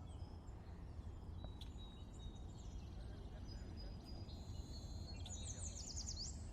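Birds calling with high whistles and chirps over a steady low rumble, with a quick run of high descending chirps near the end.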